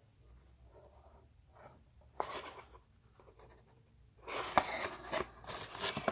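Brake packaging being handled and unwrapped: faint rustling with a sharp click about two seconds in, then louder crinkling and clicking from about four seconds in.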